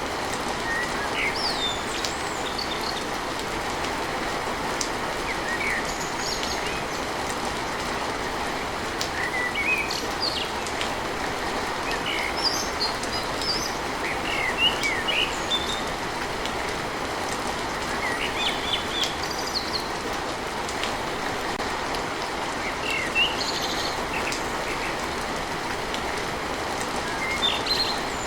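Steady rain falling on a tin roof, an even hiss throughout, with small birds chirping on and off over it.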